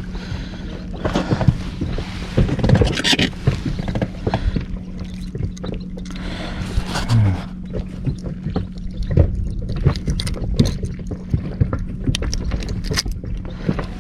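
Sounds aboard a small inflatable boat on the water: irregular knocks, clicks and handling noises over a noisy wash, with a steady low hum throughout.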